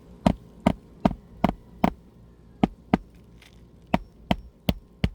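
Hammer striking a roofing nail under a raised shingle: about a dozen sharp blows in quick runs of two to five, a little over two a second, with short pauses between runs. The nail will not go in.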